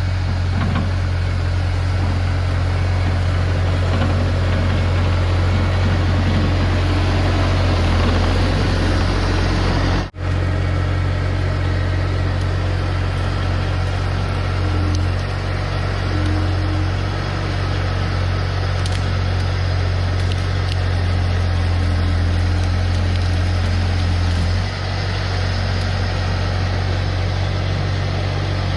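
Bobcat T250 skid-steer's diesel engine running steadily with a deep drone, as the machine pushes cut brush. The sound breaks off for an instant about ten seconds in.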